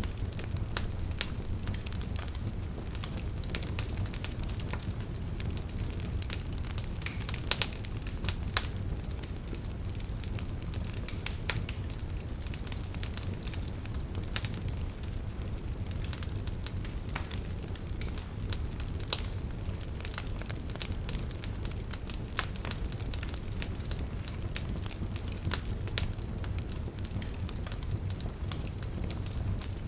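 Wood fire burning in a fireplace: a steady low rumble of the flames with irregular sharp crackles and pops from the burning logs, a few louder snaps standing out.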